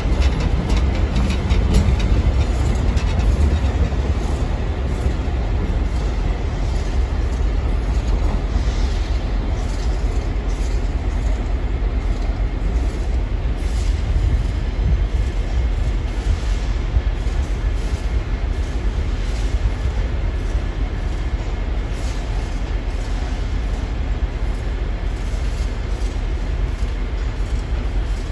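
Diesel-hauled Metra commuter train of bilevel cars pulling out and rolling away: a steady low rumble with wheels clicking over the rail joints and switches, slowly fading as it goes.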